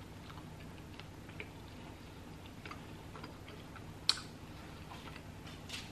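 A person chewing a mouthful of toasted breakfast bagel sandwich: faint, irregular mouth clicks, with one sharper click about four seconds in.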